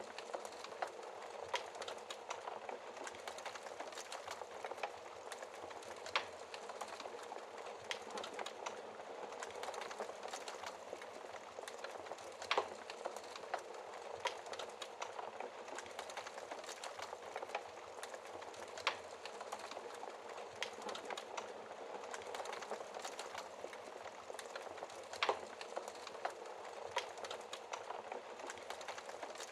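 Wood fire crackling in a fireplace over a steady hiss of rain, with many small crackles and sharper pops about every six seconds.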